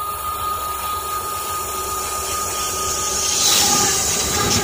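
Train passing at very close range, a steady rushing rumble that swells louder and brighter about three seconds in as the cars reach the phone.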